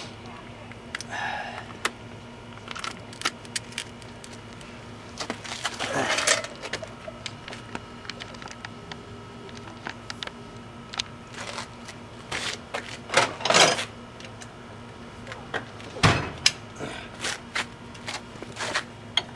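Scattered metallic clanks, clicks and rattles of hand tools being picked up and handled at irregular intervals, with one louder knock about two-thirds of the way in, over a faint steady hum.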